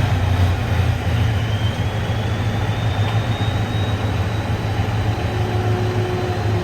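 Type 16 Maneuver Combat Vehicle's inline four-cylinder turbodiesel running steadily just after start-up, with a heavy low hum. A faint high whine rises in pitch over the first few seconds.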